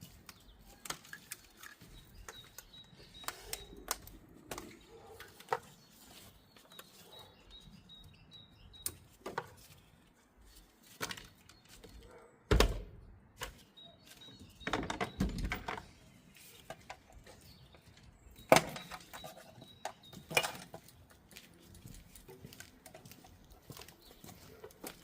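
Scattered clicks, rattles and knocks of hand work on a van's engine-bay wiring: plastic loom clips, connectors and cable ties being worked loose with hands and tools. A few louder knocks come around the middle.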